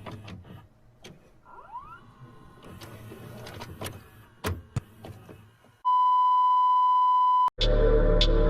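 Faint clicks and a short rising swoosh, then a steady electronic beep lasting nearly two seconds that cuts off sharply. Loud music with a heavy beat starts near the end.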